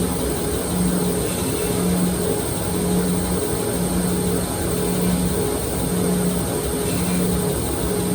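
A powered knife grinder running steadily, with a low hum that pulses on and off about once a second.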